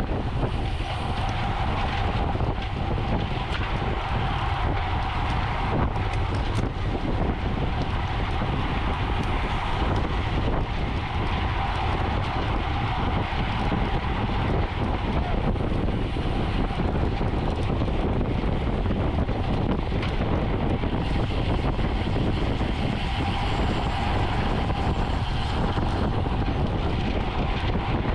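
Wind rushing over the microphone of a bicycle-mounted camera while riding at race speed, with steady road and drivetrain noise from the bike beneath it.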